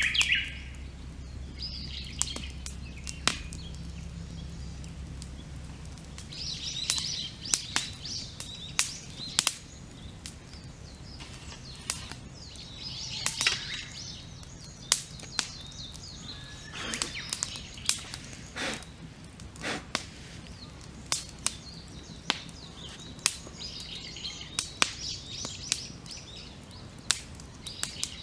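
Wood campfire crackling, with frequent sharp pops, while birds sing in short phrases every few seconds.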